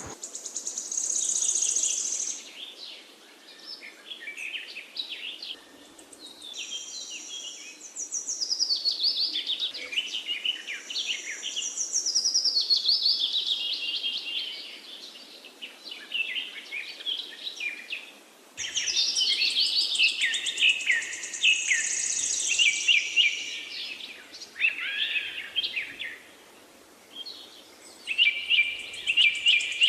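Several birds singing and chirping at once, with quick rising and falling whistled notes and rapid trills overlapping throughout. The song thins out briefly before picking up again abruptly about two-thirds of the way in.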